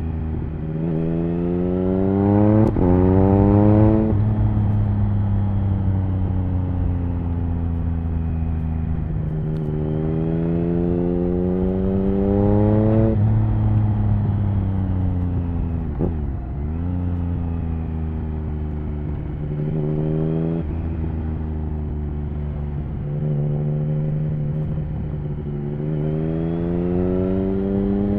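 Triumph Speed Triple 1050's three-cylinder engine through an HP Corse Hydroform exhaust, accelerating hard several times: the pitch climbs through each gear and drops sharply at each upshift. About sixteen seconds in the revs fall briefly and pick up again.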